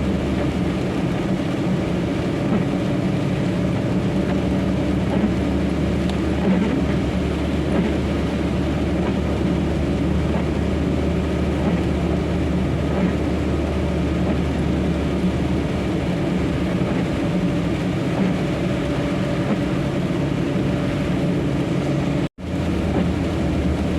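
Steady engine and road noise inside a moving vehicle's cab, a constant low drone. The sound drops out briefly about 22 seconds in.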